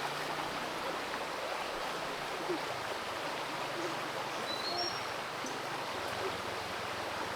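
Creek water flowing steadily, a constant rush with small gurgles.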